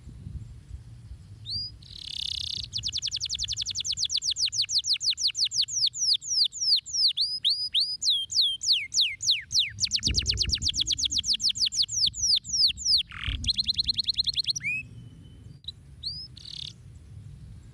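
Domestic canary singing a long song: fast runs of one repeated note, about ten a second, broken by strings of falling notes, starting about two seconds in. The song ends near the end in a brief buzzy trill, followed by a few short call notes.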